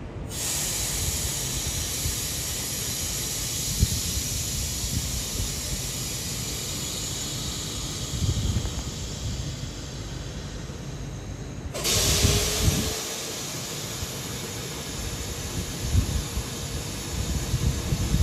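Suburban electric train running past: a steady hiss over a low rumble. About twelve seconds in, a louder stretch of hiss starts sharply, with a faint falling whine in it.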